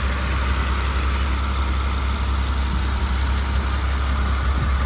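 Mercedes-AMG G65's twin-turbo V12 idling steadily, heard from close by with the hood open.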